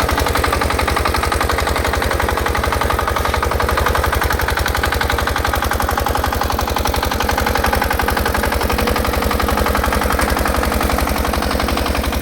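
6 hp Field Marshal single-cylinder diesel engine on a rotavator running steadily, with a rapid, even beat of exhaust pulses.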